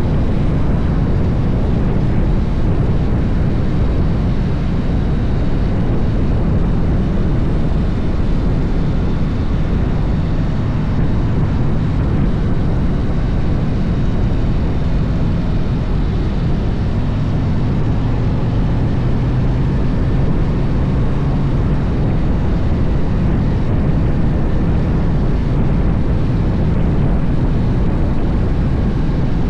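Harley-Davidson motorcycle running steadily while being ridden downhill: a loud, even, low-heavy rush of engine and riding noise that gets slightly stronger in the low end about two-thirds of the way through.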